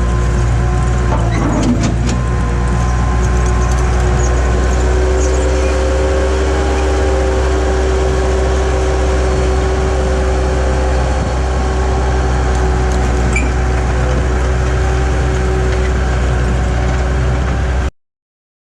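Skid steer engine running steadily under work, with a steady whine over the low rumble and a few light knocks about two seconds in.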